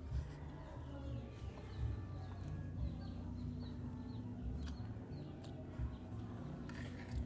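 Small birds chirping in the background: a quick string of short, high chirps, with a low rumble and soft thumps underneath.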